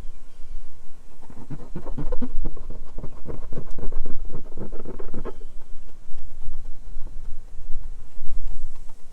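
Microfiber towel rubbing softened pine tar on the truck's painted panel, a run of quick scratchy strokes for about four seconds, over a low rumble.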